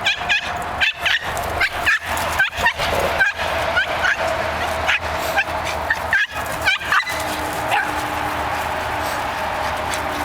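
Squeaky pug toy squeaking over and over in short, irregular high squeaks as it is bitten, over a steady background hum.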